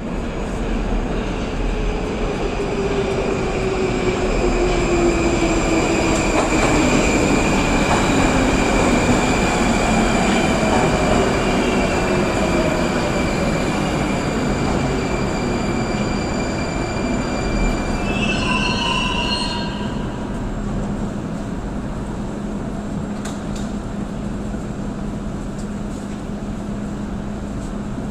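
Subway train arriving and braking to a stop. Its motor whine falls steadily in pitch under a high-pitched wheel squeal, a brief squeal sounds as it halts, then a steady low hum follows as it stands in the station.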